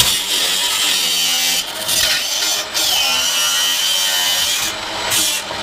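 Handheld electric power saw cutting through a part of a washer/dryer, its motor whining steadily with a few brief let-offs.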